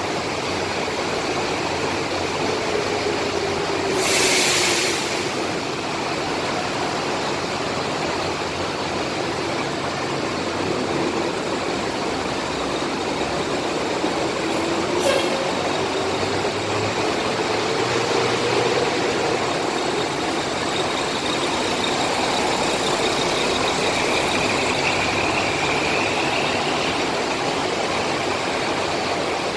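Diesel bus engine running with its pitch slowly rising and falling, over a steady hiss of heavy rain. About four seconds in comes a short, loud air-brake hiss.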